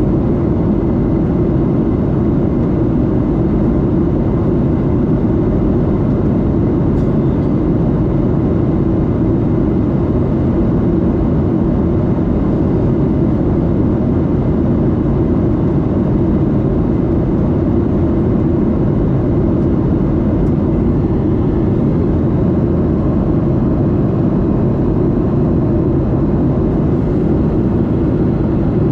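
Steady roar of a Boeing 737-8's CFM LEAP-1B jet engine and the rush of air, heard inside the cabin from a seat near the engine, with a faint steady whine above it.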